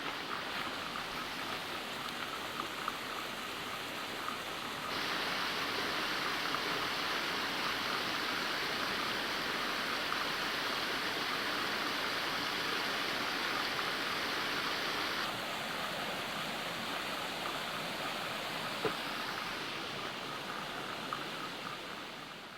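Steady rush of water cascading over rock at a mountain waterfall, getting louder about five seconds in and dropping back about ten seconds later.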